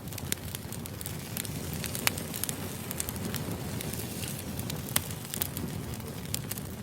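Wood fire crackling: a steady low rumble of flames with scattered sharp pops, the loudest about two seconds in and again near five seconds.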